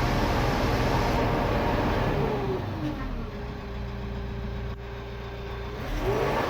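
LS Mtron XP-series tractor's engine running at high revs, then dropping to a quieter, steady idle about two seconds in and revving back up near the end.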